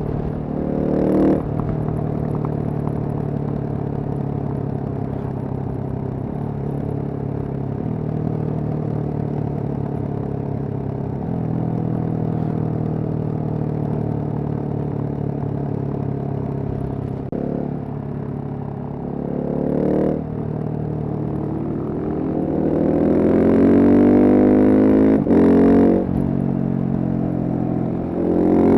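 Single-cylinder Husqvarna supermoto engine under way, heard from the rider's position: it holds fairly steady revs for most of the stretch with small steps in pitch, then about two-thirds through the revs climb steeply in a rising note to a loud high pitch, broken once briefly by a quick gear change.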